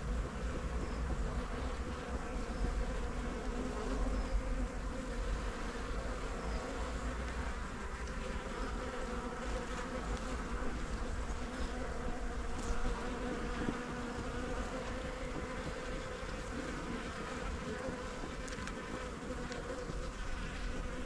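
Honey bees buzzing from an opened hive: a steady, many-toned hum of wingbeats from the colony.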